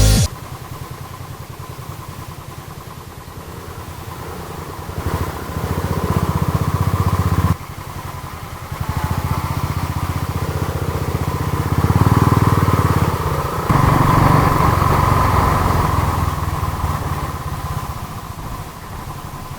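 Royal Enfield Thunderbird 350's single-cylinder engine running on the move with wind noise, its level rising under throttle and dropping sharply about seven seconds in, then climbing again.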